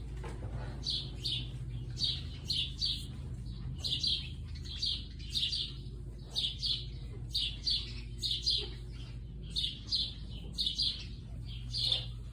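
A small bird chirping over and over, short high chirps in quick clusters of two or three about once a second, over a steady low hum.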